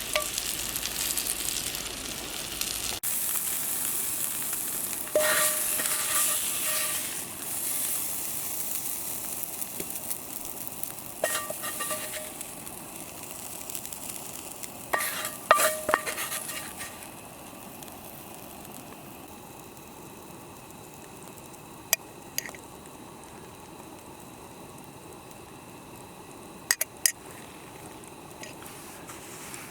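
Meat sizzling and frying in a cast iron skillet over a campfire, with a metal utensil clinking and ringing against the pan several times. The sizzle dies down a little past halfway, leaving a quieter stretch with a few sharp clicks.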